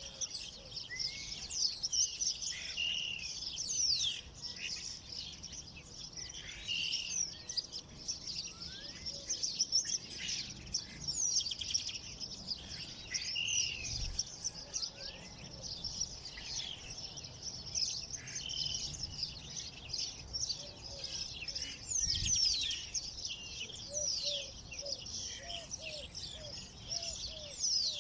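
Many small birds chirping and singing at once, a dense chorus of high, quick chirps and trills. Near the end, a lower call repeats in a run of short notes beneath them.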